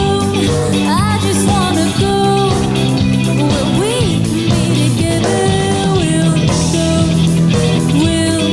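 Funk rock band playing live: a lead line with sliding, bent notes over a steady low end and cymbals.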